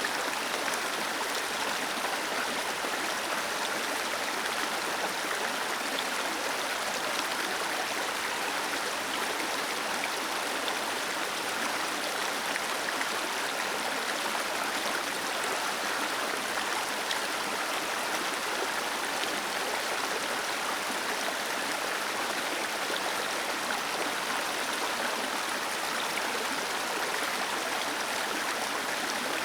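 Small waterfall: water falling and splashing in a steady, even rush with a brighter, hissing tone and little low rumble.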